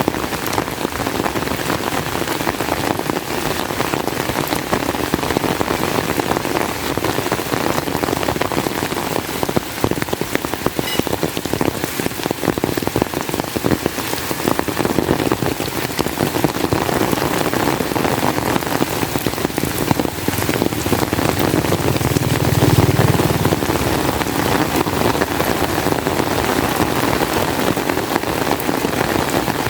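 Heavy rain falling steadily, a dense hiss thick with fine drop impacts. About three-quarters of the way in, a low rumble swells for a few seconds.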